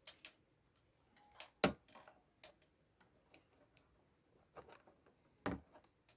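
A few scattered light clicks and knocks from handling, the sharpest about a second and a half in, with near quiet between them.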